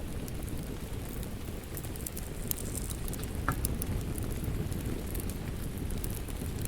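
Wood fire crackling over steady rain: scattered sharp snaps and pops above a dense, even rush of rainfall, with one clearer pop a little past halfway.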